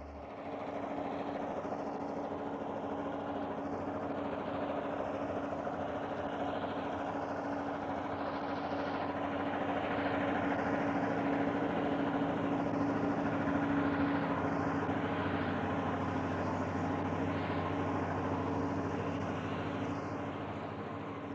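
A train running by: a steady mechanical drone with a constant hum, growing louder toward the middle and easing off near the end.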